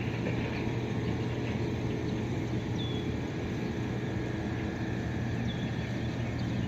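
A steady low hum over an even background noise, with a few short faint chirps, the clearest about 3 seconds in.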